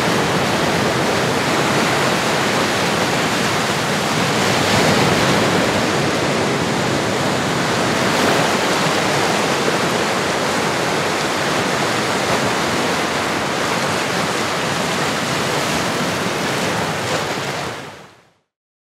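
Ocean waves washing on a shore, a steady surf wash with gentle swells, fading out quickly near the end.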